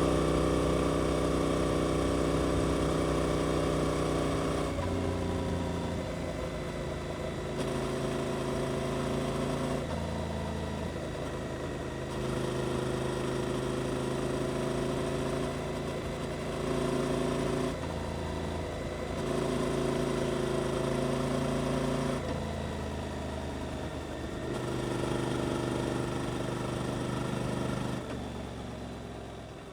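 Suzuki GSX-8S 776 cc parallel-twin engine through an Arrow aftermarket exhaust. It slows off with falling revs over the first few seconds, then runs at low revs with the note stepping up and down every couple of seconds, and fades near the end.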